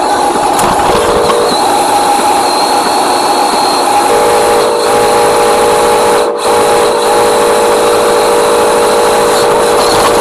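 Radio-controlled model truck running: a steady electric motor whine, joined by a second, lower whine briefly about a second in and again from about four seconds in.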